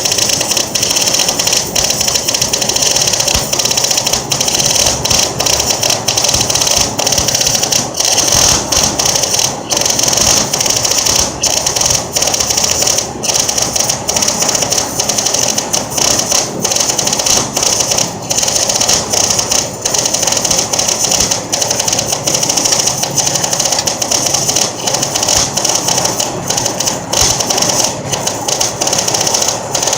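Millermatic MIG welder's arc crackling and sizzling continuously as a long weld bead is run, with many brief breaks in the arc.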